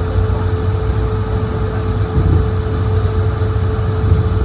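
Steady airliner cabin noise inside an Airbus A220-100: a continuous low rumble under a constant mid-pitched hum.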